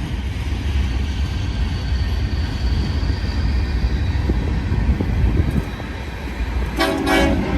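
Freight trains rolling past, a steady low rumble of wheels on rail with scattered clicks. About seven seconds in, a short toot of a diesel locomotive's horn, most likely from the BNSF autorack train's crew.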